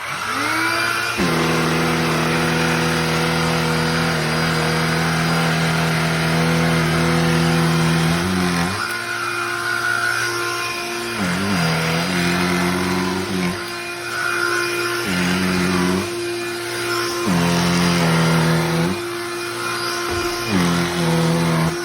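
Cordless handheld vacuum switching on, its motor rising in pitch over about a second to a steady whine. From about eight seconds in, the pitch and level dip briefly every couple of seconds.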